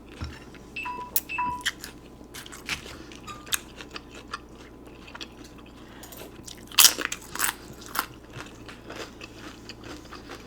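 Close-up eating sounds: biting, chewing and crunching of pozole with tortilla chips, a string of sharp crunches and mouth clicks, the loudest about seven seconds in. Two short beeps sound about a second in.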